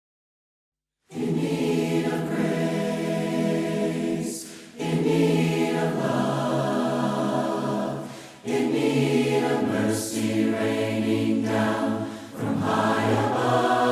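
A choir singing a hymn a cappella, starting about a second in after dead silence; the phrases are broken by three short pauses for breath.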